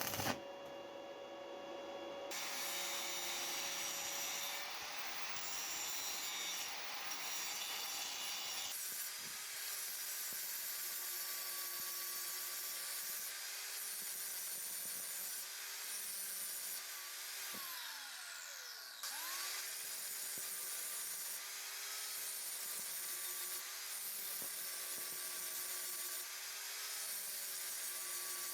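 Electric power tool working rusted anvil steel with a rough scraping, grinding noise. Its motor note sags every second or two as it is pressed in, and about two-thirds of the way through the motor winds down and then spins back up.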